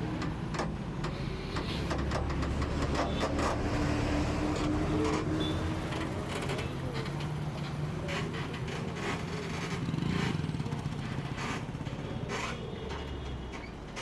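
Heavy lorry's diesel engine running at low speed on a steep downhill bend, with scattered clicks and rattles over it; it gets louder about two seconds in and again around ten seconds.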